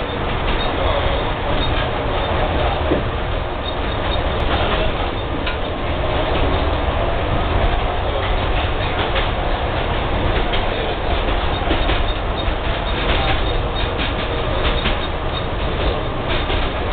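Tatra tram running along its track, heard from inside the driver's cab: a steady rumble of wheels and motors with sharp clicks from the rail, more of them in the second half.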